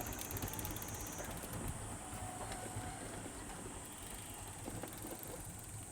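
Steady low rumble of a train at a railway level crossing, heard just after the crossing's warning bell has stopped, with a thin high steady hiss over it.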